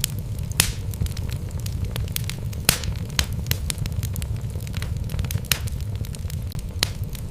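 Wood logs burning in a fireplace: a steady low rumble of flame with scattered sharp crackles and pops, the loudest coming every second or two.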